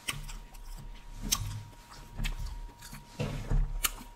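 A person chewing a mouthful of boneless buffalo chicken wing close to the microphone, with scattered sharp mouth clicks and smacks.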